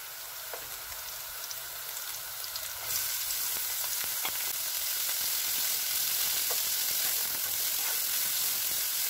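Shredded carrots frying in hot oil with onions and garlic in a nonstick pan: a steady sizzle that grows louder about three seconds in. Light taps of a spatula stirring the pan.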